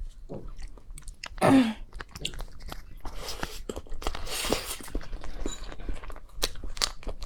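Close-miked chewing and mouth sounds of someone eating a small cream-filled cake: soft wet chews and clicks, with one short voiced hum about a second and a half in.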